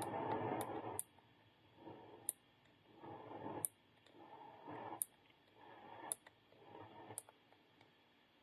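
Pedal making a repeating noise about every second and a quarter: a short rubbing swell ending in a sharp click, over and over. It is an intermittent fault noise that the owner counts as a defect.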